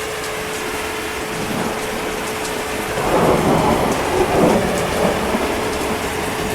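Steady heavy rain, with a roll of thunder coming in about halfway through and rumbling on unevenly.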